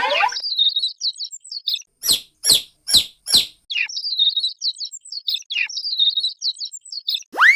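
Baby chicks peeping: rapid runs of short high chirps, with a series of about five louder peeps that each drop sharply in pitch partway through.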